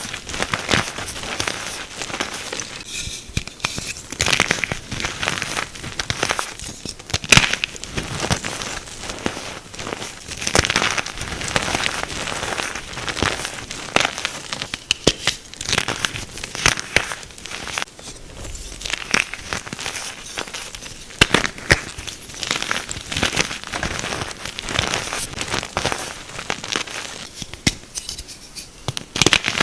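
Pressed blocks of gym chalk and calcium carbonate being crushed and crumbled, giving a dense run of dry crackles and crunches with sharp snaps throughout.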